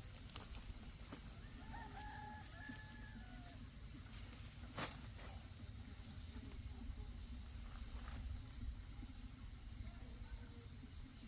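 A rooster crowing once, a drawn-out call about two seconds in, over a steady low background; a single sharp click follows near the middle.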